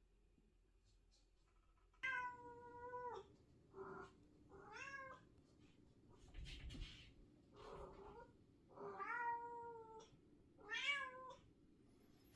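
Domestic cat meowing over and over, about six drawn-out meows about a second apart after a couple of seconds of quiet. It is crying for attention and will not settle.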